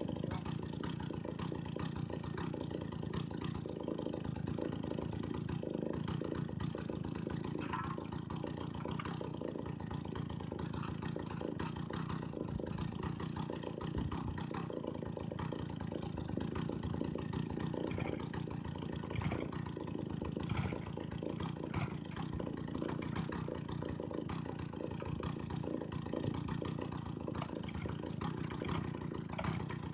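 Two-stroke chainsaw engine running steadily, a season after it was last used.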